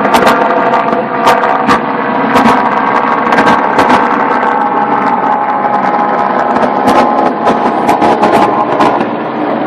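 Steady engine noise with a faint whine, broken by irregular sharp clicks.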